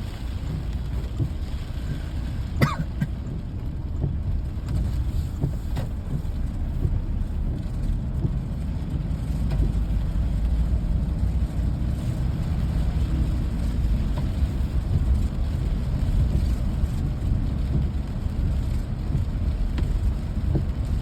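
Rainy-day outdoor ambience: a steady low rumble with a few short, sharp knocks, the clearest about two and a half seconds in and another near six seconds.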